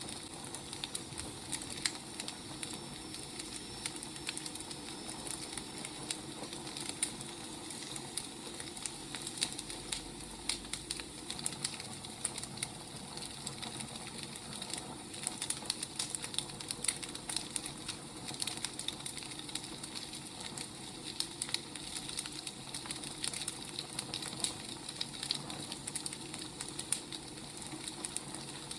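Burning firewood crackling steadily, with irregular sharp pops and snaps over a soft hiss.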